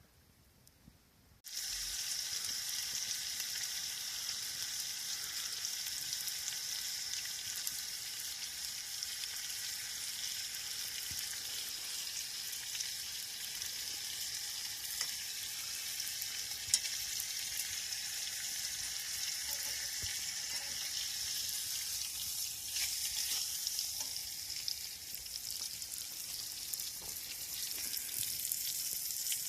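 Food sizzling and frying in a hot pan over the campfire, a steady hiss that starts suddenly about a second and a half in.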